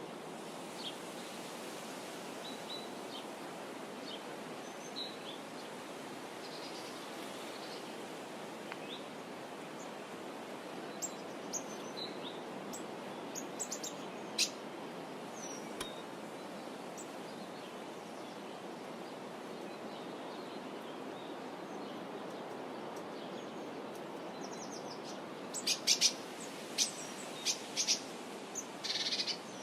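Small birds giving short, high chirps here and there, with a quick run of several calls near the end, over a steady background hiss.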